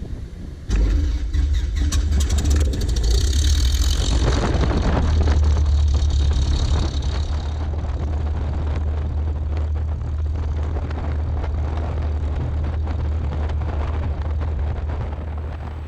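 Cessna 172SP's Lycoming four-cylinder engine catching about a second in, running a little higher for a few seconds, then settling into a steady idle.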